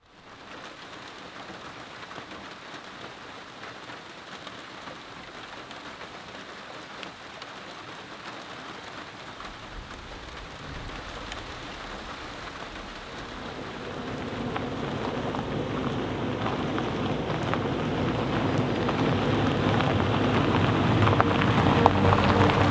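Steady rain falling with the patter of drops. A low thunder rumble comes in about halfway, and the sound grows louder toward the end, where a music drone rises in over the rain.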